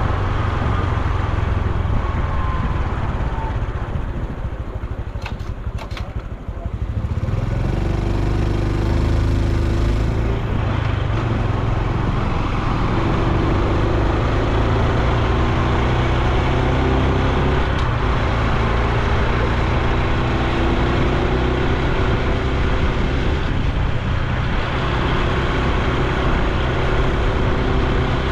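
Honda Super Cub C125's single-cylinder engine and exhaust running on the move, easing off and quietening for a couple of seconds about five seconds in, then picking up again and holding a steady note.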